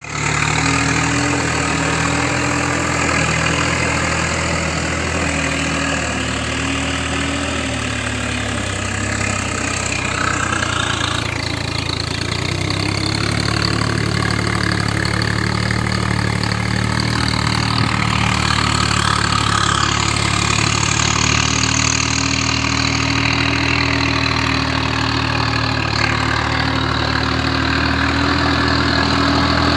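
Kubota tractor's diesel engine running steadily, its note shifting a few times.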